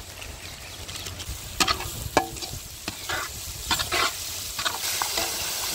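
Pav bhaji vegetable-and-spice mixture frying in a large pan, sizzling steadily, while a spatula scrapes and knocks against the pan as it is stirred. The sizzle grows louder near the end.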